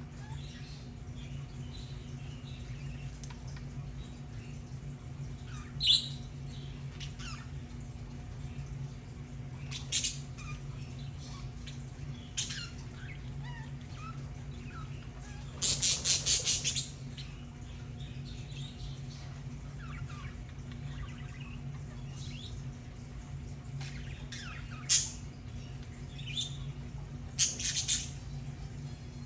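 Budgerigars giving short chirps and squawks every few seconds, with one longer, louder burst of rapid calls about halfway through, over a steady low hum.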